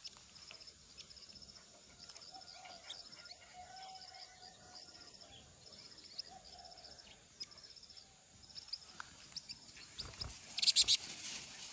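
Faint outdoor chorus of crickets chirping in steady repeating high-pitched trills, with a short burst of louder, rapid high chirps near the end.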